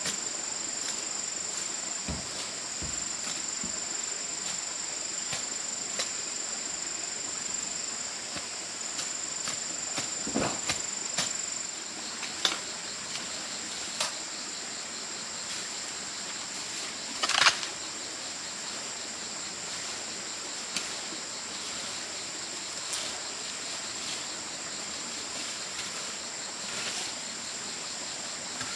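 Steady high-pitched drone of insects such as crickets, with a few scattered knocks and rustles, the loudest about two-thirds of the way through.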